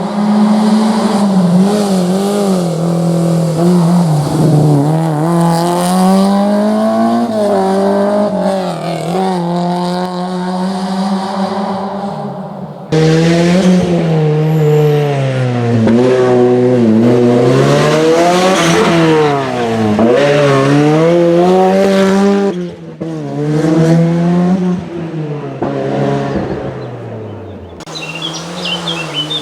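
Historic rally car engines revving hard through the gears, the pitch climbing and dropping again and again as they change gear and brake. The sound breaks off abruptly about a third of the way in and twice more near the end, like cuts between different passes.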